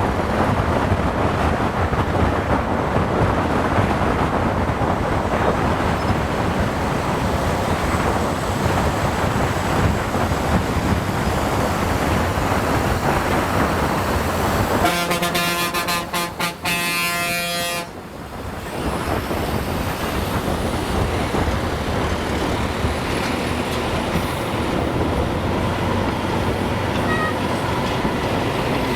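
Steady wind and road noise from a motorcycle riding on a highway, with a vehicle horn sounding in one long blast of about three seconds a little past halfway.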